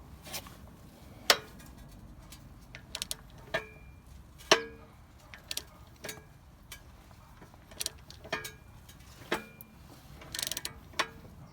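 Metal tools and parts clinking and knocking at irregular intervals, several strikes with a short metallic ring. A quick run of clicks comes near the end.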